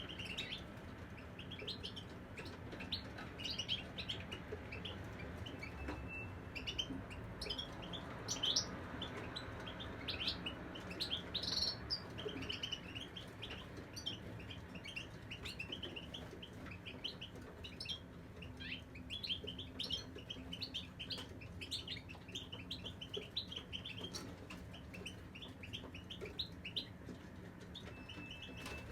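Caged European goldfinches singing a morning song: a continuous run of quick, high chirps and twitters.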